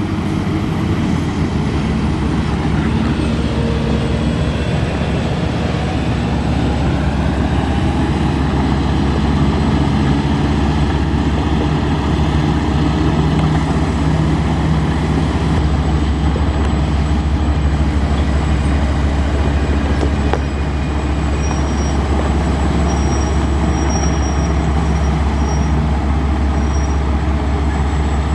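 Heavy Nissan Diesel truck's diesel engine running steadily with a deep rumble, its note rising and settling slightly as it drives.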